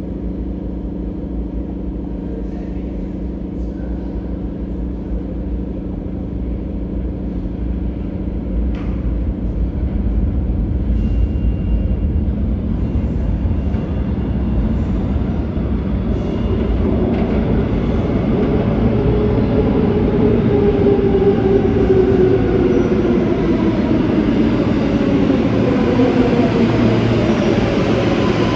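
New York City subway L train arriving at the platform: a low rumble builds and grows louder, and in the last third several whines fall in pitch as the traction motors wind down under braking.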